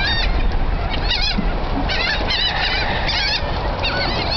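A flock of seagulls calling over one another while feeding on food thrown into the water: many short, wavering squeals, overlapping throughout. A steady low rumble runs underneath.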